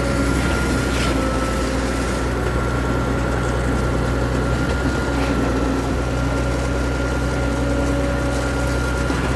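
A vehicle engine running steadily: a constant low drone with a thin, unchanging whine over it.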